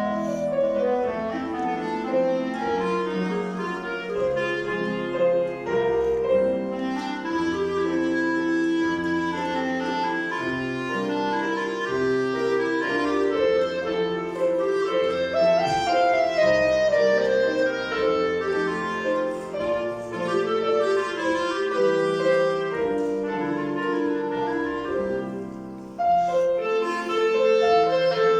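A classical piece played live: a woodwind melody, clarinet-like in tone, over piano accompaniment. The music breaks off briefly just before the end and then picks up with the next phrase.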